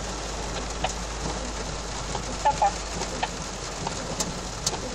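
Heavy rain beating on a car's windshield and roof, heard from inside the cabin over a steady low hum, with a few sharp ticks of drops striking the glass.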